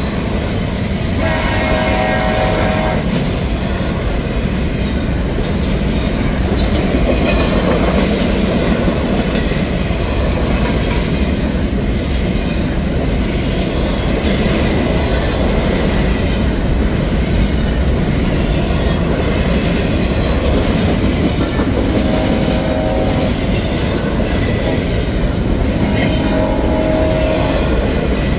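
Double-stack intermodal well cars of a freight train rolling past close by: a steady loud rumble and clatter of steel wheels on rail. Brief held tones sound over it, about a second and a half long, once near the start and twice near the end.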